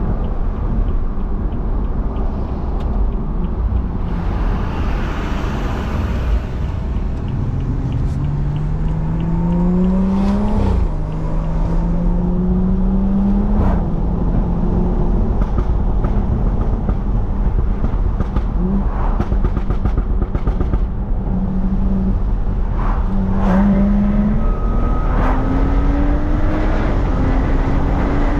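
BMW F30 335i's turbocharged 3.0-litre inline-six (N55), Stage 2 tuned and catless, pulling hard through the gears: the engine note climbs in pitch and drops back at each upshift, with a steadier cruise between two runs of acceleration. A brief rushing hiss sounds about five seconds in.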